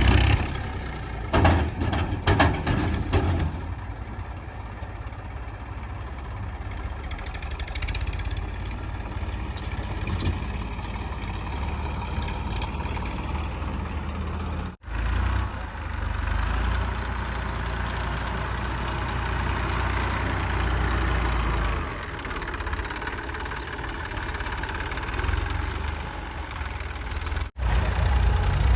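Heavy diesel machinery engine running steadily, with a few short knocks or clanks in the first few seconds. The sound drops out for an instant about 15 seconds in and again near the end.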